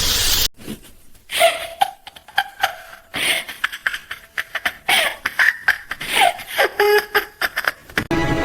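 A quick run of short, high-pitched, laugh-like vocal sounds with small clicks between them.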